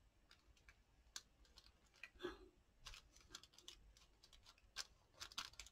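Near silence with faint, scattered small clicks and taps of paper and craft materials being handled on a desk, a little busier near the end.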